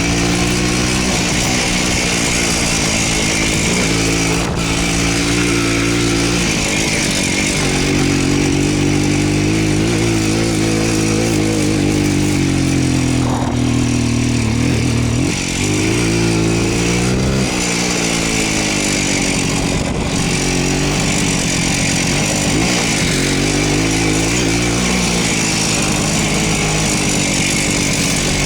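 Voskhod two-stroke single-cylinder motorcycle engine running under way, its revs rising and falling several times.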